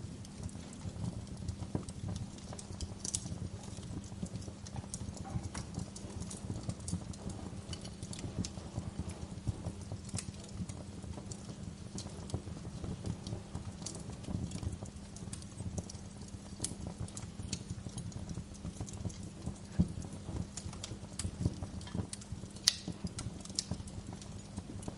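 Wood fire crackling in a fireplace: a dense, irregular run of low knocks with sharp pops scattered throughout, the loudest pops coming in the last few seconds.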